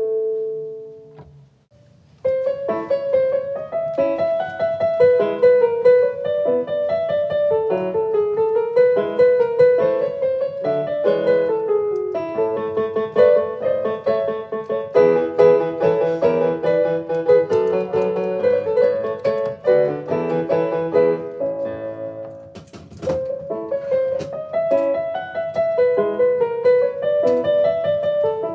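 Background piano music: a gentle melody of repeating notes. One phrase fades out in the first two seconds and the music starts again, with a short lull about three quarters of the way through.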